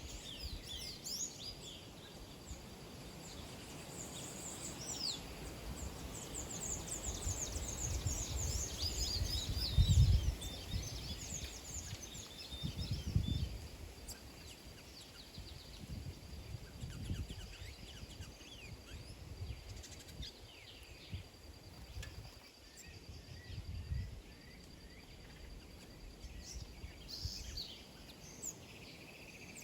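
A flock of small birds chirping and twittering, many short high calls overlapping, busiest in the first ten seconds and again near the end. Under them runs a low rumble that peaks about ten and thirteen seconds in.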